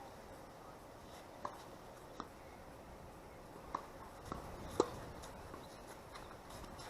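Scattered light knocks from play on a tennis court over a faint steady hiss, the loudest about five seconds in.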